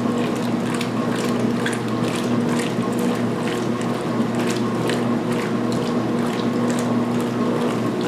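2016 Speed Queen top-load washer agitating at high speed, its belt-driven transmission giving a steady mechanical hum with constant irregular splashing and clicking as the agitator churns a load of towels in water.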